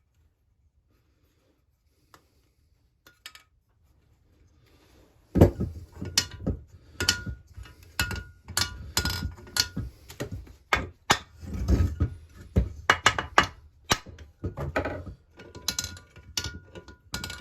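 Near silence for about five seconds, then a run of irregular metallic knocks and clinks as chainsaw crankcase parts are handled and set down on a workbench, some of them ringing briefly.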